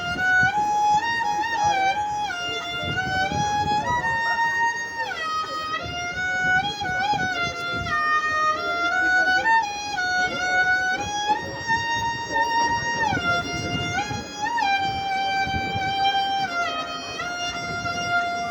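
A bowed string instrument playing a single solo melody of held notes that slide from one pitch to the next, over a low rumbling background.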